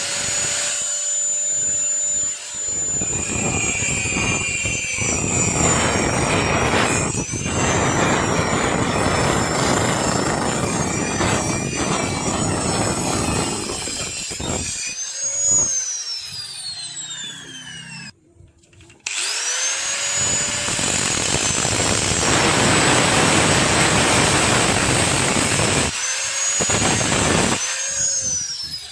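Hand-held power tool running under load in two long runs: each time it spins up with a rising whine, cuts with a harsh steady noise, and winds down with a falling whine.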